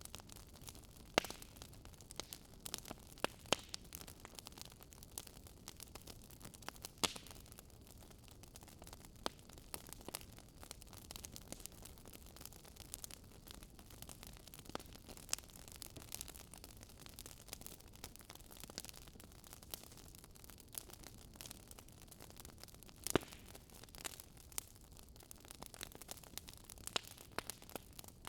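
Wood fire crackling in a fireplace: irregular sharp pops and snaps over a low steady hiss, with a few louder pops about a second in and again later on.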